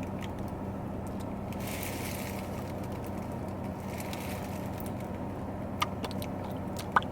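Steady low hum inside a car's cabin, the engine idling, with two soft rustles early on and a couple of small clicks near the end.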